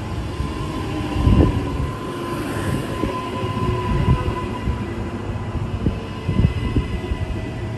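Train running on the rails: a steady low rumble with a held whine and irregular low knocks, the strongest about a second and a half in.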